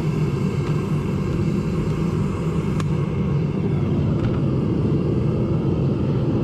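Propane burner of a Devil Forge melting furnace running steadily, a low, even rushing noise, with a faint tick just under three seconds in.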